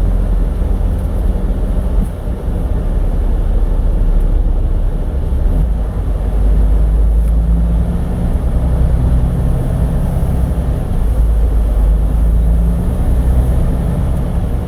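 Semi-truck diesel engine running at low speed while the truck turns around, a steady low rumble with a clearer engine note from about halfway through.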